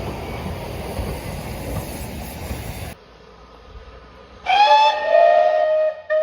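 Steam locomotive whistle: one long blast that rises in pitch as it opens and then holds steady, followed by a short second toot near the end. It comes after a steady rushing noise that cuts off sharply about three seconds in.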